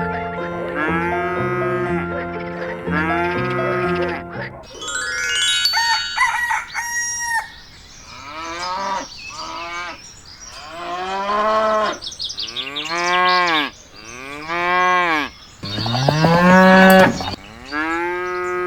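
Music with a stepping melody for the first few seconds, then a rising sweep, then a series of cow moos, each about a second long, coming faster and louder near the end.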